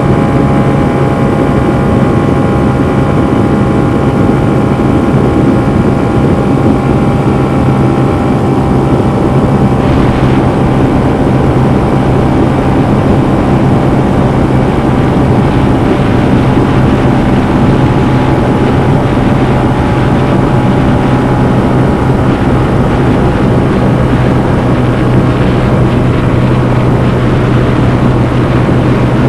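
Honda CB125F's 124cc air-cooled single-cylinder four-stroke engine running under throttle at steady revs while riding, heard onboard.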